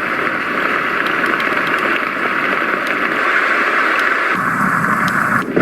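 Roffie white noise machine playing a recorded rain sound: a steady hiss of rainfall. About four seconds in, the noise shifts lower and fuller.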